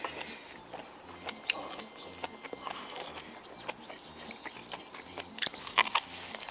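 Close-miked chewing and smacking of someone eating, with many short wet clicks from the mouth. The loudest cluster of clicks comes about five and a half seconds in.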